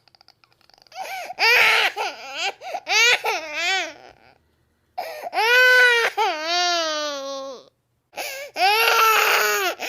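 Infant crying in three bouts: choppy sobbing cries about a second in, a long wavering wail about five seconds in, and another burst of crying near the end, with short silent breaks between them.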